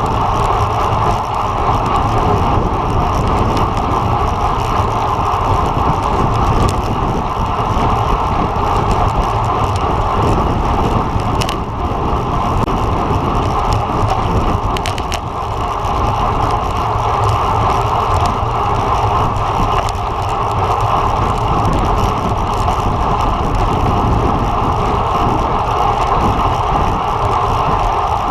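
Road bike riding at speed: steady rush of wind and tyre noise, with a few faint clicks.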